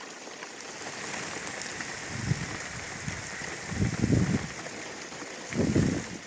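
Rain pattering steadily on a car's windshield and body during a thunderstorm, heard from inside the car. Three short low rumbles come about two, four and six seconds in.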